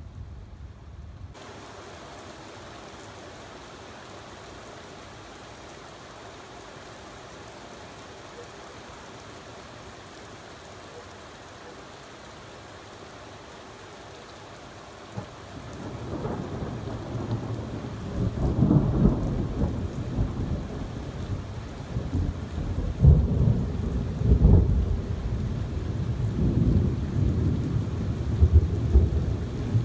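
Heavy rain falling steadily. About halfway through, a sharp crack of thunder sets off long, loud rolling rumbles that swell and ease off several times.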